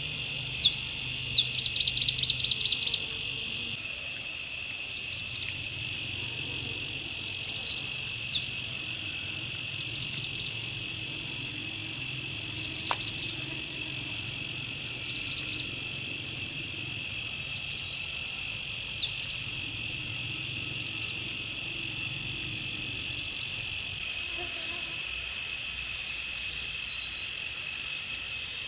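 Steady insect drone with birds chirping: a fast, loud run of chirps in the first three seconds, then scattered short chirps and a few quick downward whistles.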